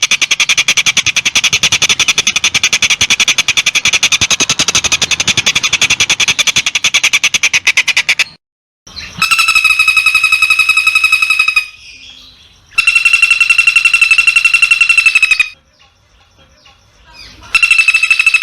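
Long-tailed shrike (cendet) singing: a fast chattering run of rapid repeated notes for about eight seconds, then after a brief pause three loud trilled bursts of two to three seconds each, held at one steady pitch.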